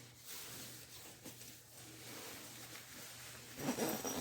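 Soft rustling of a sleeping bag's ripstop nylon shell as someone shifts inside it, louder near the end.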